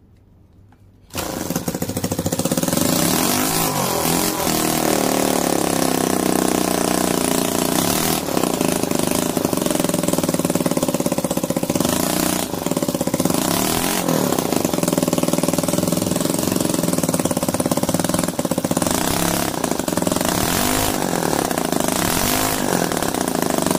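CISON L100 3.5cc single-cylinder four-stroke gasoline model engine catching about a second in, then running fast and loud, its revs dipping and rising again several times.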